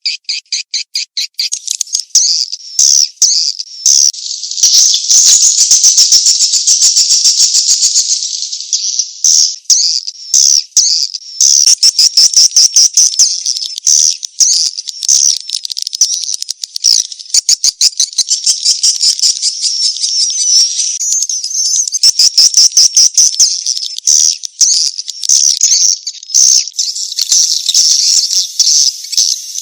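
Swiftlet calls, loud and unbroken: a dense chatter of high-pitched chirps and rapid clicking trills, with a few short breaks. It is the 'chase-mating' type of lure call that swiftlet farmers play to draw swiftlets into a nesting house.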